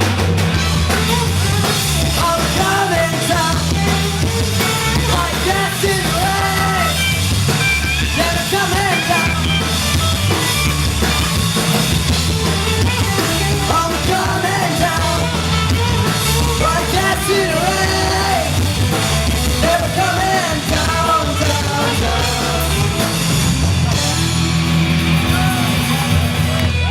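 Live band playing a rock song with a singer over a heavy, repeating bass line; the song stops right at the end.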